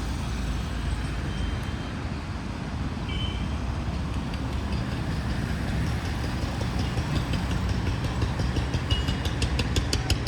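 Road traffic: a steady low rumble of vehicle engines, with a couple of brief high tones a few seconds in and a fast, even ticking, about four a second, that starts about two-thirds of the way through.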